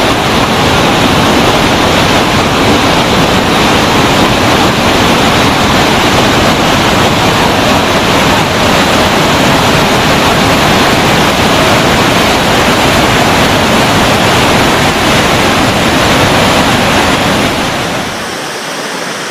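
Iguazu Falls, a loud steady rush of falling water. About eighteen seconds in it drops to a quieter, thinner rush with less low rumble.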